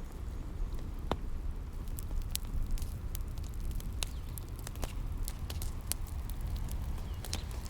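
Wood fire crackling, with frequent sharp snaps and pops, over a steady low rumble of waves.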